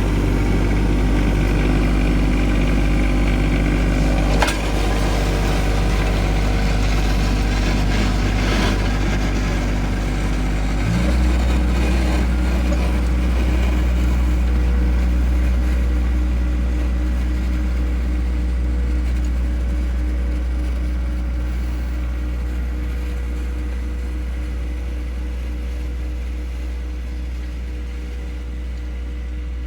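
John Deere 1025R compact tractor's three-cylinder diesel engine running steadily. There is a sharp knock about four seconds in, and the engine note changes abruptly about eleven seconds in. The sound then grows gradually quieter toward the end.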